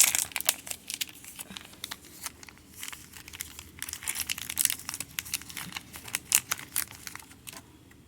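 Crinkling and tearing of a vapor pad's individual wrapper being opened and handled by hand: a dense run of irregular crackles that stops shortly before the end.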